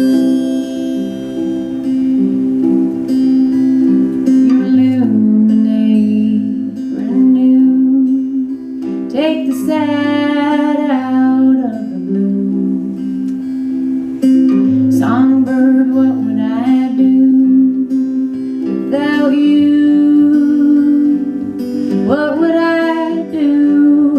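Live band playing an instrumental break: guitar lead phrases with bending notes over strummed acoustic guitar and a steady low accompaniment.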